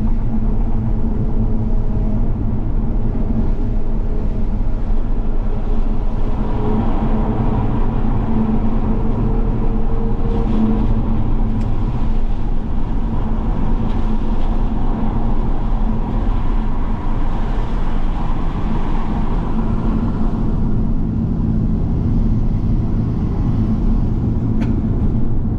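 Toyota Supra MK5 driving on a wet road: a steady engine drone mixed with tyre and road noise, holding an even pitch without sharp revving.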